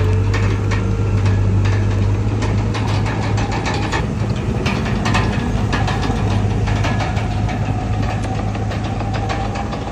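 Komatsu D31PX bulldozer's diesel engine running steadily, with many short, sharp clicks over it.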